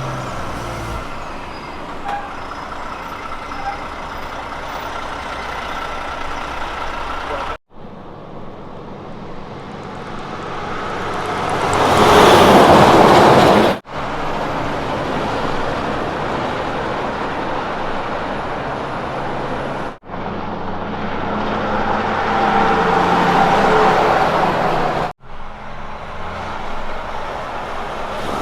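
Road train prime movers running on the highway in a string of short clips with abrupt cuts between them; the engine and tyre noise swells to a loud pass-by about halfway through and builds again near the end.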